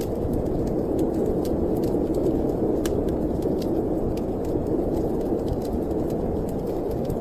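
Storm wind blowing steadily, a dense low rushing noise, with irregular sharp crackles and pops from a burning wood fire.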